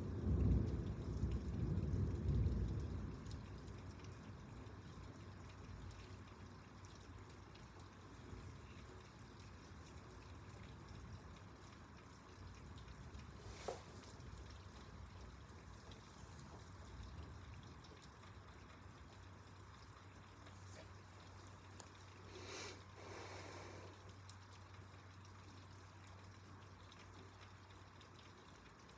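Thunder rumbling low and loud for the first few seconds, then dying away. Rain keeps dripping and trickling steadily underneath.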